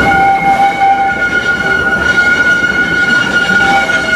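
Steam-powered narrow-gauge park train running, with a steady high-pitched tone held throughout.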